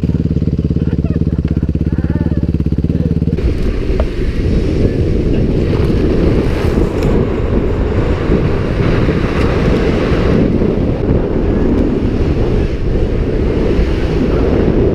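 Dirt bike engine running at a steady note, then about three and a half seconds in the sound turns into a loud, rough, uneven rumble.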